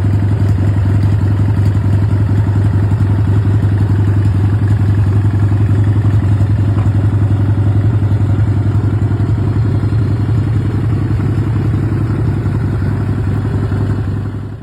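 1985 Harley-Davidson FXST Softail's Evolution V-twin engine running steadily at idle with its pulsing exhaust beat, fading out near the end.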